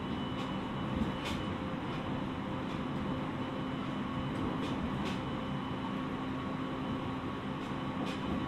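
Cab-end interior sound of a JR East 701-series electric train (car KuMoHa 701) on the move: a steady running rumble with a few faint steady hum tones and a handful of short ticks.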